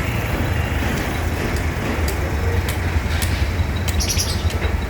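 A flatbed truck's diesel engine rumbles steadily as it reverses toward an excavator. A few short bird chirps come near the end.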